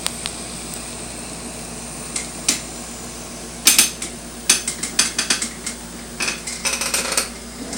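Sharp clicks and clinks of small hard objects. They are sparse at first, then come thick and fast from about three and a half seconds in, over the steady low hum of an air-conditioning unit.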